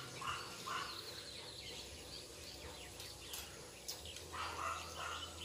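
Birds calling faintly: short notes repeated in quick groups of two or three at the start and again about four seconds in, with higher faint chirps between.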